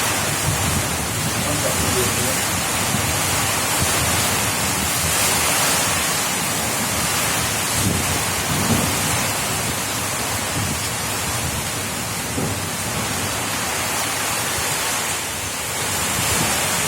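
Heavy rain pouring down steadily in strong wind, with a low, uneven rumble under the hiss of the rain.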